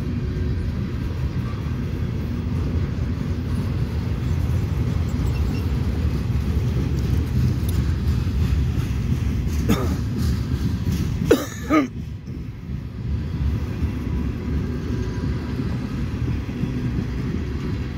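Freight train's tank cars and covered hoppers rolling past, their steel wheels on the rails making a steady low rumble. A brief louder noise cuts in about eleven seconds in.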